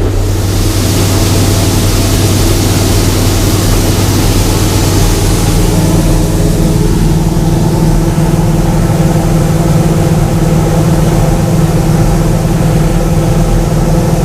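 Old gasoline-engined combine harvester running steadily under harvest load, its engine hum steady throughout; a high hiss comes in at the start and fades gradually over the next several seconds.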